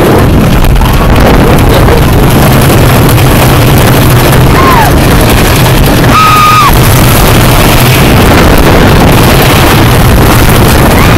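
Loud wind buffeting the microphone over the rumble of a wooden roller coaster train running along its track, with two short high cries from riders around the middle.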